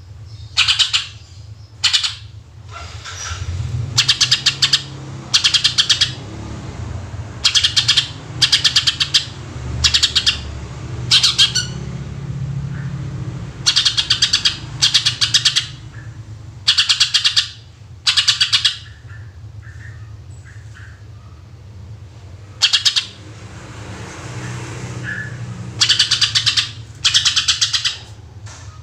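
Cucak ijo (green leafbird) singing loud 'tembakan': short bursts of about a second of fast, sharply repeated high notes, over a dozen in a row with a few seconds' pause past the middle. A low rumble runs underneath.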